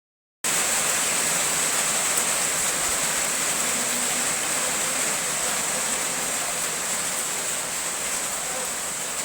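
Steady rain falling, an even hiss with faint scattered drop ticks, starting about half a second in. A steady high-pitched ring sits over the hiss.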